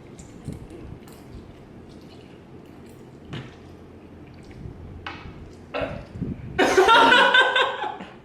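Short sharp breaths and a few small clicks, then about six and a half seconds in a loud, wavering vocal cry lasting over a second: a person reacting to the burn of very spicy noodles.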